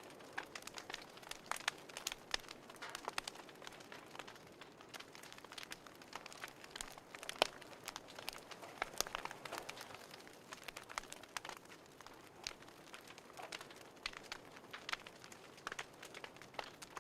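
Wood fire crackling in a fireplace: irregular small pops and snaps over a faint steady hiss.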